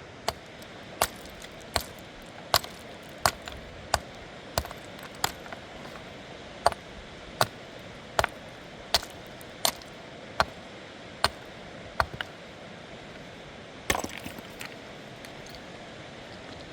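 A series of sharp, evenly paced strikes, about one every three-quarters of a second, with a short break in the middle and a cluster of smaller clatters near the end, over a steady rushing background.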